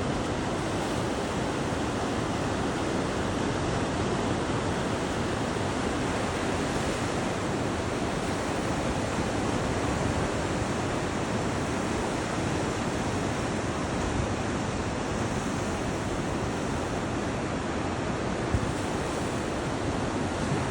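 Atlantic surf washing onto a sandy beach in a steady, continuous roar of breaking waves.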